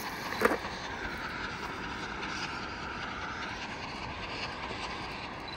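A train rolling past, a steady rail rumble with a faint high tone that dips in pitch and rises again. A single sharp knock comes about half a second in.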